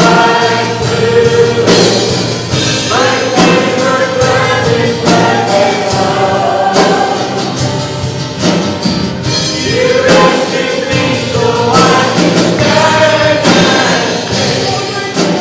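A congregation and band singing a gospel hymn together, with many voices over a steady beat.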